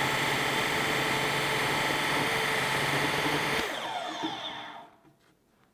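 Electric power tool cutting off the bent steel ends of a ratcheting turnbuckle, running at a steady whine. It is switched off a little over three seconds in and winds down, falling in pitch.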